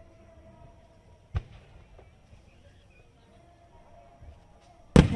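Firework shells bursting: one sharp bang about a second and a half in, then a much louder boom near the end, followed by a rolling rumble and crackle.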